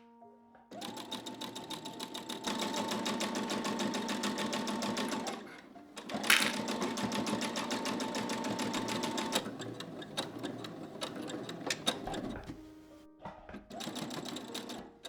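Sewing machine stitching in runs. There are two long stretches of fast, even needle strokes with a brief stop and a sharp click between them, then lighter, stop-and-start stitching near the end.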